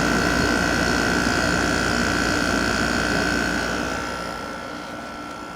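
Vintage Emerson Quiet Kool window air conditioner running, its compressor and fan making a steady hum with a constant high tone; the compressor runs nicely. The sound falls off in level about four seconds in, the low hum fading while the high tone carries on.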